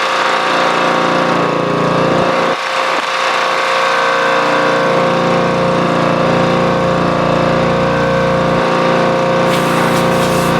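An engine running steadily at a constant speed, with a strong steady hum and some change in its low rumble about two and a half seconds in and again near the end.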